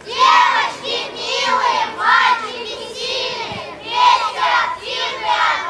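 A group of children singing together in unison, loud, in short phrases.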